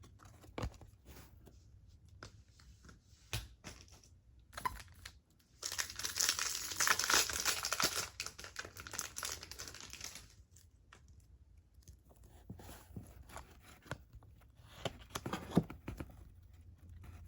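Foil trading-card pack wrapper being torn open and crinkled: a noisy stretch of about four seconds starting about five seconds in, with light clicks and taps of cards being handled before and after.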